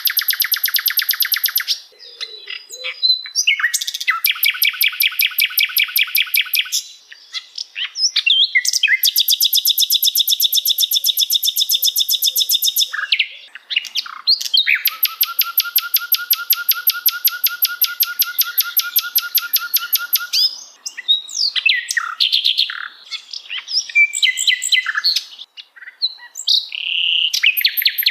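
Recorded songbird song: long, rapid trills lasting several seconds each, broken by short pauses, then a run of varied quick chirps and whistles from about two-thirds of the way in.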